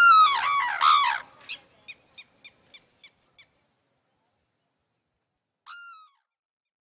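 A bird calling: a loud call of several falling notes, then a quick run of short notes, about four a second, that fade away, and one more short call near the end.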